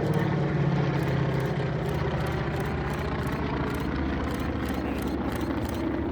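Piston-engined warbird aircraft passing overhead, a steady engine and propeller drone.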